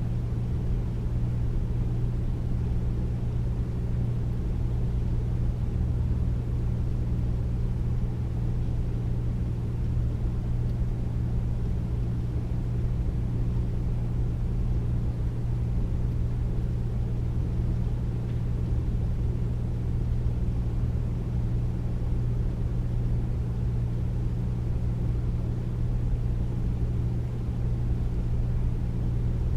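Air conditioner running steadily: an even, deep hum under a soft rushing noise, with no change throughout.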